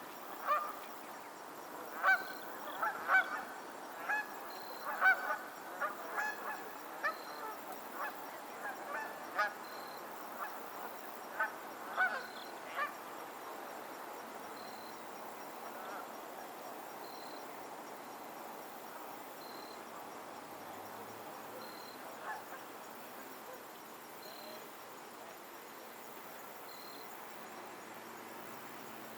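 Geese honking, a flurry of repeated calls over the first dozen seconds or so, then one lone honk a little past twenty seconds, over a steady outdoor hiss.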